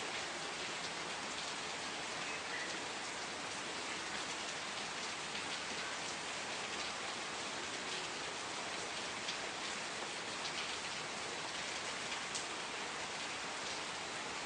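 Steady rain falling, with a soft even patter and scattered sharper drop ticks.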